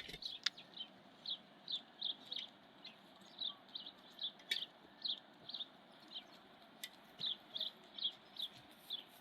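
A bird chirping over and over, short high chirps about two or three a second, with a few sharp clicks among them.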